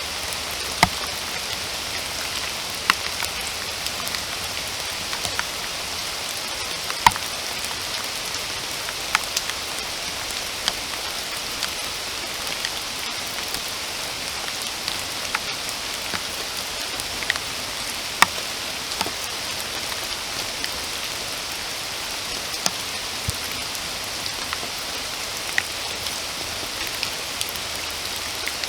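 Steady rain falling in a forest, an even hiss with single louder drops hitting close by every second or two.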